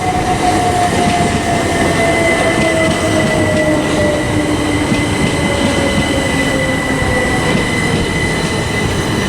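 Class 377 Electrostar electric multiple unit pulling into the platform, with its electric whine falling slowly in pitch as it slows, over a steady rumble of wheels on the rails and a steady high tone.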